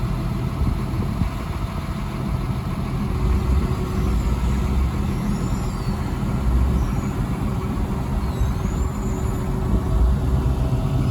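Diesel engine of a 2006 ABG Titan 7820 tracked asphalt paver running steadily with a low rumble.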